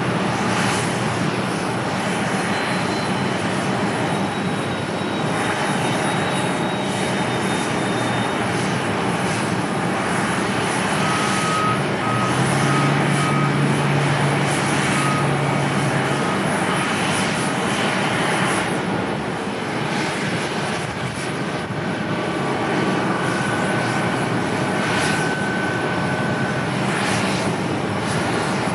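Airliner's engines heard from the ground during a landing approach: a continuous loud rushing engine noise, with wind gusting on the microphone.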